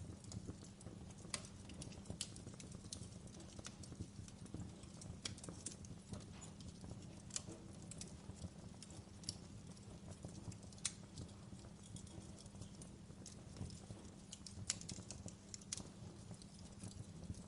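Wood fire burning in a fireplace: irregular crackles and pops from the burning logs over a steady low rumble.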